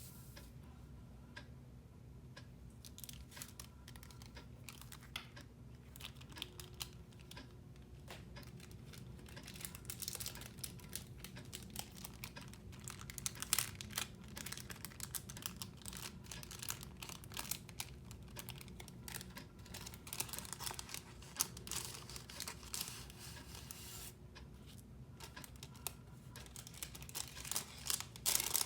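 Packaging being handled during an unboxing: crinkling and tearing, with a steady run of small rustles and clicks that thins out briefly near the end before a final flurry.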